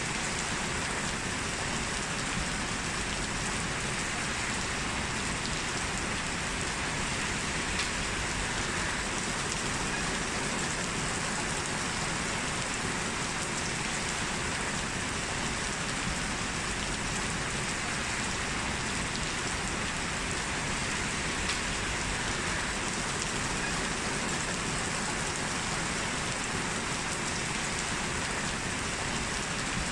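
Heavy rain falling steadily, a constant even hiss of drops on a hard surface.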